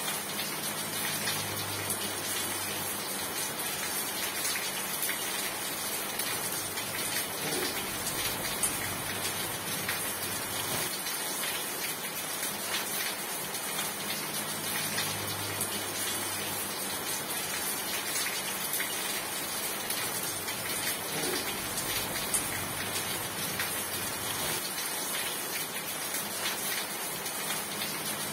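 Steady heavy rain falling, a dense hiss crackling with many small drop impacts. A faint low hum comes and goes underneath.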